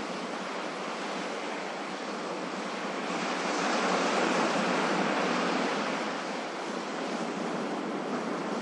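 Ocean waves breaking and washing in, a steady hiss of surf with little bass that swells into a louder wave about three seconds in and eases off by about six seconds.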